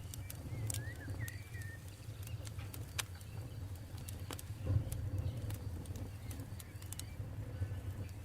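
Campfire burning: wood crackling with scattered sharp pops over a low, steady rumble. A few short bird chirps come about a second in.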